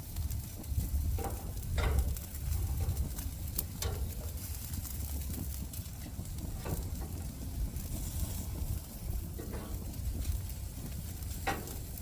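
Jerk chicken wings sizzling on a gas grill, with a steady hiss, occasional sharp pops of spitting fat, and a steady low rumble underneath.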